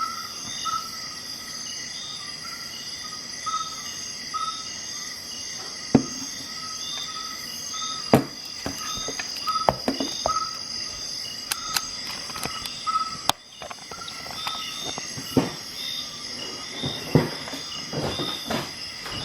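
Steady insect chirping, about two chirps a second, with scattered sharp clicks and knocks from about six seconds in: the clicks of a multi-tool Swiss Army knife's blades and tools being handled.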